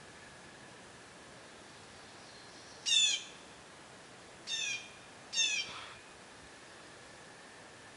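A bird gives three short calls, each sliding down in pitch, about three, four and a half and five and a half seconds in; the first is the loudest. Beneath them runs the faint steady hiss of a small stream.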